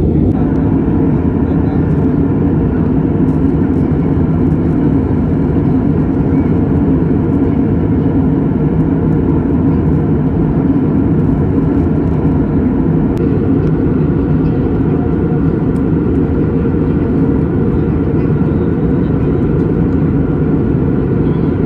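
Airplane in flight: a steady low drone of engine and rushing air noise, with a few constant hum tones in it.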